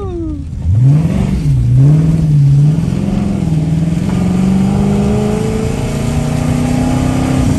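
Car engine revving: a sharp rev about a second in that rises and falls twice, then a slow, steady climb in pitch as the car accelerates.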